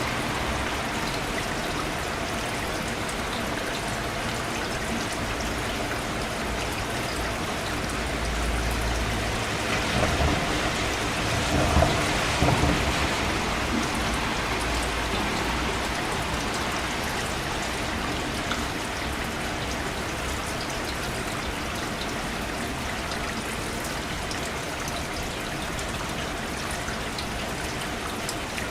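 Steady rain falling, with a louder low rumbling stretch and a few sharper spatters around the middle.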